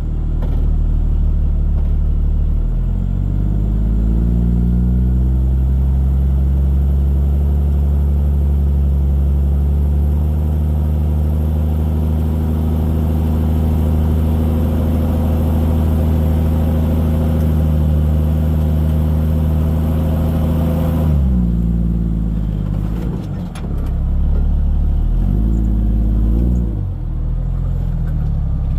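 Jeep Cherokee XJ engine pulling under load while crawling over a rock obstacle. The revs climb a few seconds in and hold steady for about fifteen seconds, then drop suddenly, followed by a few short blips of throttle near the end.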